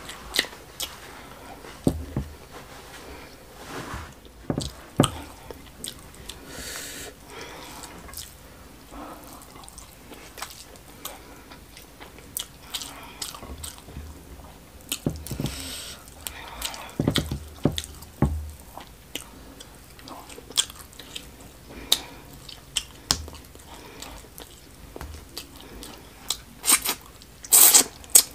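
Close-up eating sounds: chewing and wet smacking of mouthfuls of smoked catfish stew and rice, with many scattered short clicks, growing louder and denser near the end as another bite goes in.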